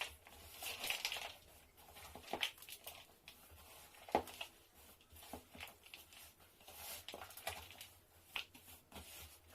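Soft, irregular handling sounds from cookie dough with chocolate chunks being worked by hand: quiet squishes, crinkles and light taps, a few sharper clicks among them.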